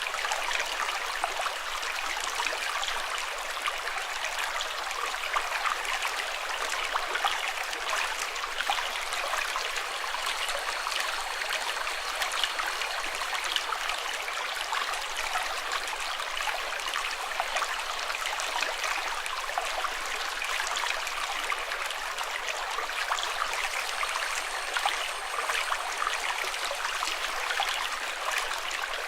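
Running water trickling steadily, with no change from start to end.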